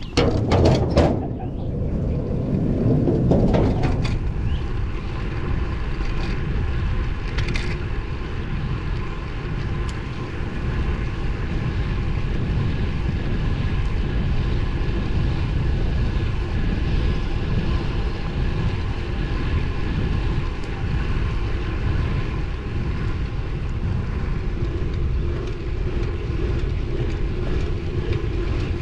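Wind rushing over the camera microphone and road noise while riding a road bike, a steady rumbling hiss, with two louder surges in the first four seconds.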